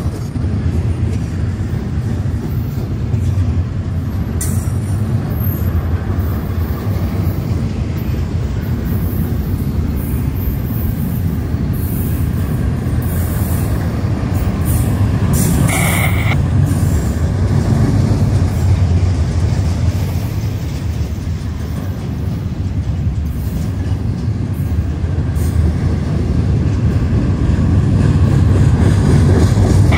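Double-stack intermodal well cars of a freight train rolling past, their wheels on the rail making a steady low rumble. A brief high wheel squeal comes about halfway through.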